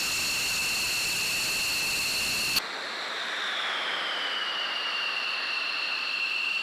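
F-16 Fighting Falcon jet engine whine over a rush of air, steady and high-pitched. After an abrupt cut about two and a half seconds in, a second shot of the whine glides down in pitch and then settles.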